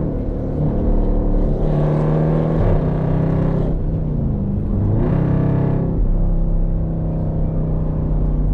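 Car engine heard from inside the cabin while driving, pulling harder twice with a rise in pitch and noise, then easing back to a steady cruise.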